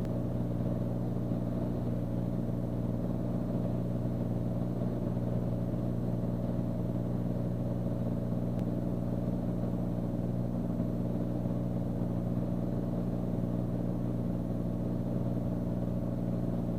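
Beechcraft Bonanza's piston engine and propeller droning steadily in cruise, heard from inside the cockpit.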